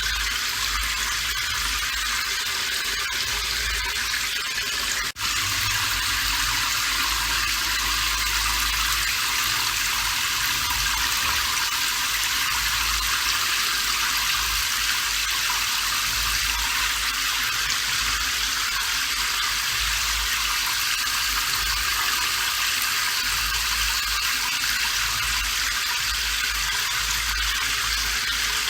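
Steady rain falling, an even hiss, with a very brief dropout about five seconds in.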